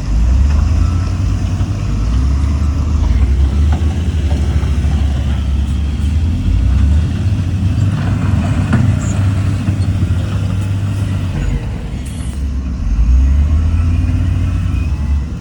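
Heavy diesel earthmoving machinery running, a deep steady engine rumble that dips briefly and swells again near the end.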